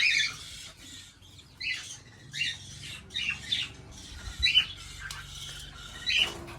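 Caged small parrots giving a string of short, sharp squawks, roughly one or two a second, each call falling quickly in pitch. The loudest squawk comes right at the start.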